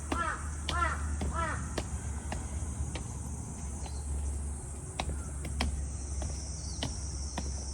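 A crow cawing three times in quick succession in the first two seconds, over sharp footstep clicks on steps at about one to two a second and a steady high hiss.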